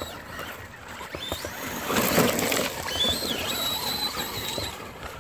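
Traxxas Rustler VXL RC trucks driving in mud: tyres spinning and throwing wet mud with a burst of spraying noise about two seconds in, then a thin high brushless-motor whine that steps up and holds steady before cutting off near the end.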